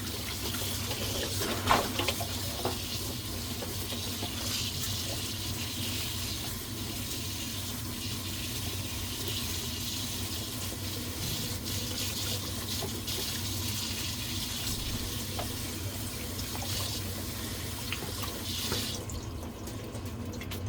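Kitchen tap running into a sink as fresh garlic scapes are rinsed, the water shutting off shortly before the end.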